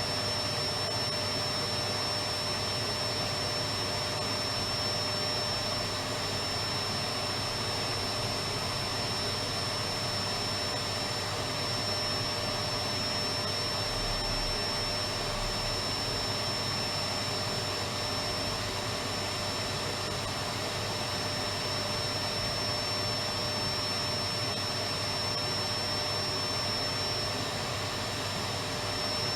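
Electric vacuum cleaner running steadily, a constant motor hum with a rushing whine that does not change.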